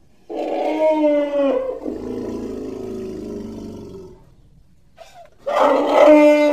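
Mammoth sound effect: two loud, pitched animal calls. The first lasts about a second and trails off into a lower, fainter rumble; after a pause the second starts near the end.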